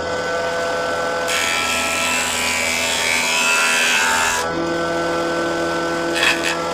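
Electric power tool running and cutting into wood: a steady motor hum under a rough cutting noise, which shifts in tone a little after four seconds as the tool works along the piece.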